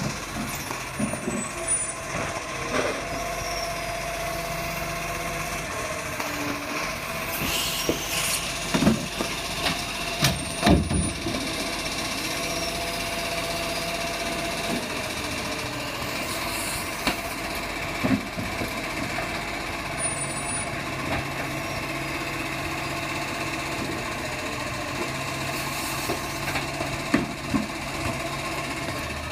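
Heavy truck engine running steadily, with occasional knocks and clanks and a short hiss of air about eight seconds in.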